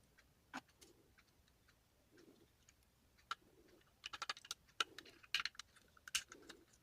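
Faint sharp clicks and ticks of a small screwdriver working the tiny screws out of a computer mouse, sparse at first and coming thick and fast in the second half. A soft low sound recurs about every second and a half underneath.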